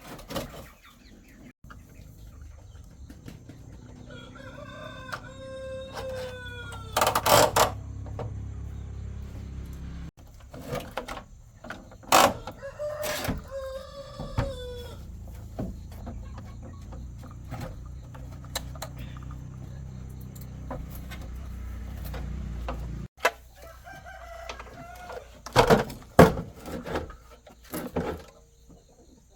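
A rooster crowing twice, each crow about two seconds long and dropping in pitch at the end, with a fainter crow later. A steady low hum runs under the first three-quarters and cuts off suddenly, and sharp knocks come and go.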